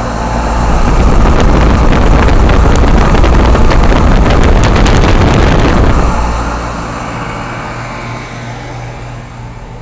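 York rooftop air-conditioner condensing units running with a steady low hum. From about a second in until about six seconds, a loud rush of air buffets the microphone, then fades back to the hum.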